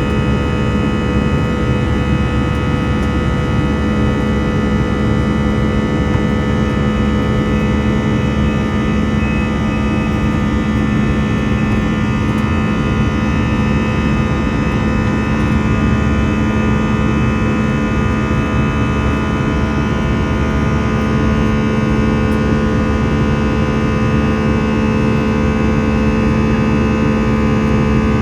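Airbus A321 jet engines running steadily: a loud, even hum with several steady tones over a rushing noise.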